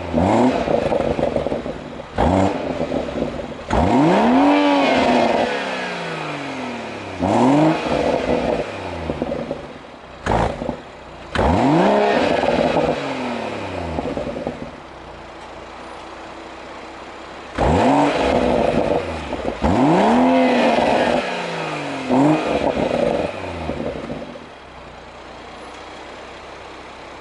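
BMW M140i's 3.0-litre turbocharged straight-six (B58) being revved hard through its exhaust about eight times, each rev rising quickly and falling back to idle, with one short blip in the middle and settling to a steady idle between the bursts.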